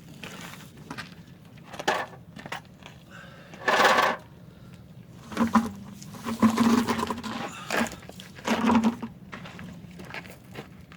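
Aerosol brake cleaner sprayed onto the brake parts in several separate hissing bursts: a short one, a strong half-second one, a longer spray of about two seconds, and a last short burst.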